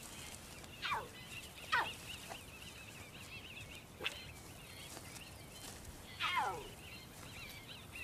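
Wild birds calling: three long whistles that fall steeply in pitch, one about a second in, one just before two seconds and one after six seconds, over a faint wavering high warble.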